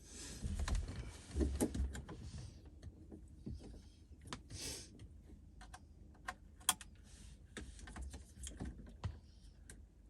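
Scattered clicks, taps and rustling as the radio unit and plastic dash trim of a 2011 BMW 328i are handled and fitted back into the dashboard.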